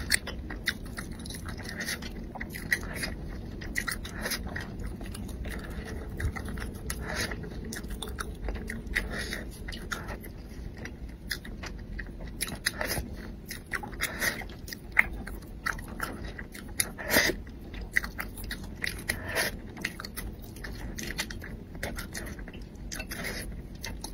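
Close-miked eating of braised fish: chewing and mouth sounds, with frequent small, irregular clicks and crunches.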